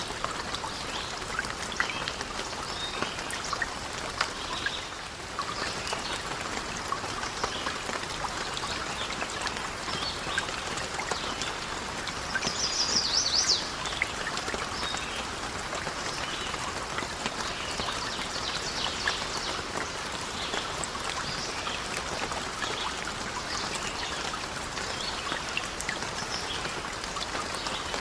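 Steady rain falling, with scattered sharp ticks and crackles throughout. A bird gives one short, rapid, high trill about halfway through.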